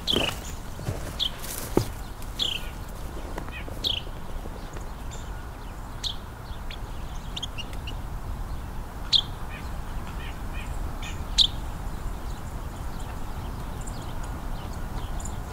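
Carolina wren calling near the microphone: about six short, sharp notes, each dropping in pitch, a second or more apart, with fainter chips between them. A few clicks come in the first two seconds, over a steady low background rumble.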